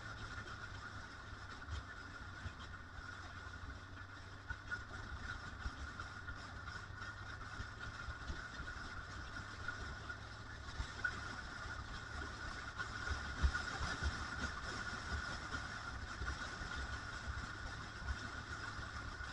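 Motorcycle running on the road with a steady whine, while wind buffets the microphone in uneven low thumps.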